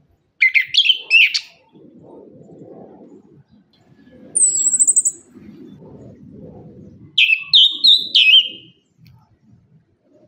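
Chestnut-capped thrush singing in loud, short phrases of warbled whistles. A run of notes comes at the start, a thin high trill about four seconds in, and another run of whistled notes about seven seconds in.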